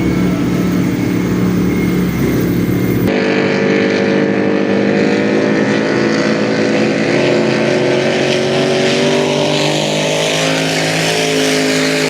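Lobster boat engine running hard at racing speed, a loud steady drone. About three seconds in the sound cuts abruptly to another boat's higher engine note, whose pitch slides slowly down.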